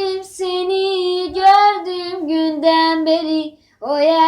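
A high female voice singing a slow melody on long held notes without instruments, with a short breath break about three and a half seconds in.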